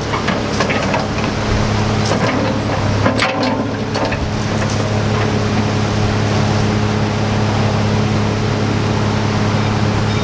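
Bobcat machine's diesel engine running steadily with a low, even drone. There are a few sharp knocks and clanks in the first four seconds.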